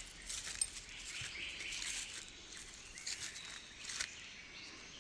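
Footsteps rustling and crunching through dry leaf litter on a forest track, in uneven clumps, with a faint bird chirp about half a second in.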